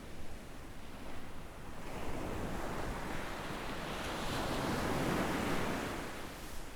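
Gentle sea waves washing onto a sandy beach: one wave swells up about two seconds in, is loudest past the middle and fades away near the end.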